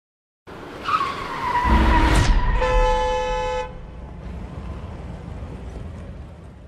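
Tyres squealing under hard braking for about a second and a half, then a car horn sounding one steady blast of about a second, over the rumble of road and engine noise.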